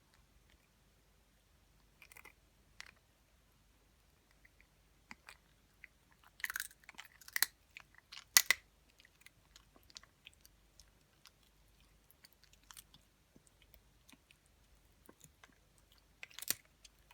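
Elderly Yorkshire terrier crunching dry kibble in scattered bites, with quiet gaps between. The loudest crunches come in a cluster a little before halfway and again near the end.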